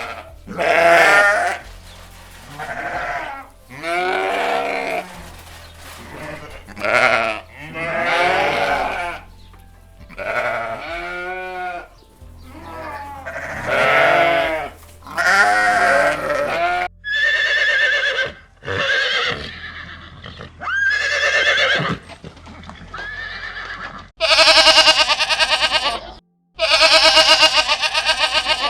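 Farm animals calling, a long series of separate pitched calls each about a second long, with the two longest and loudest calls near the end.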